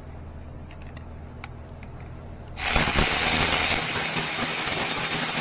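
A power ratchet starts about two and a half seconds in and runs steadily with a loud hiss, spinning out a starter motor mounting bolt.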